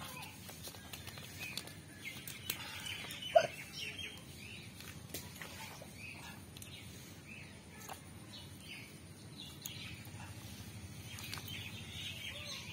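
Birds chirping on and off outdoors, with scattered small clicks and one short, louder sound about three and a half seconds in.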